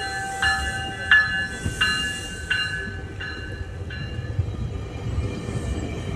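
A departing GO Transit train's locomotive bell ringing in even strokes, about three every two seconds, fading out about four seconds in, over the low rumble of the moving train.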